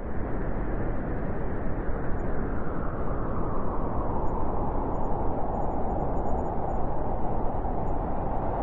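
Wind blowing: a continuous low rushing noise that rises and falls a little in strength.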